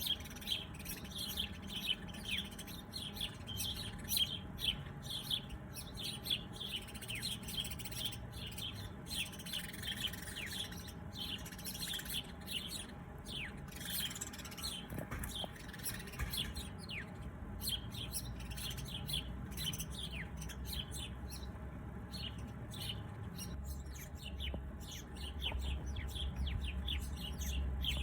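Many small birds chirping and tweeting, a dense run of short, quick downward-sweeping chirps that thins out about two-thirds of the way through, over a low steady rumble that grows louder near the end.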